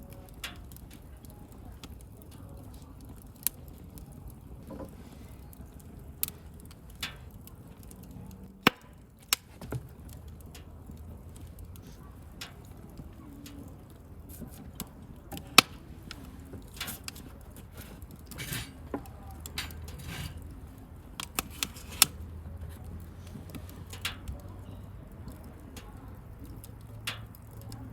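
Wood bonfire crackling: irregular sharp pops and snaps, a few of them loud, over a low, steady rush of burning.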